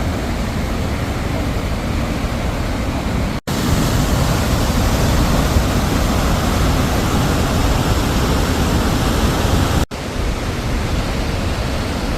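Steady rush of the Tennforsen waterfall heard from close beneath the falls, a dense, even wash of falling water strongest in the low end. It cuts out for an instant twice, about three and a half seconds in and near ten seconds.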